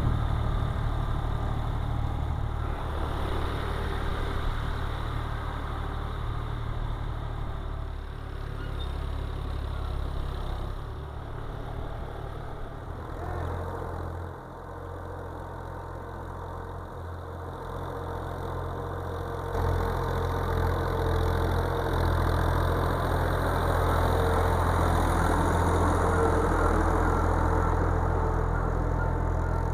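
Tractor engine running steadily as it prepares a muddy rice field. It grows quieter through the middle stretch, then comes back louder about two-thirds of the way through.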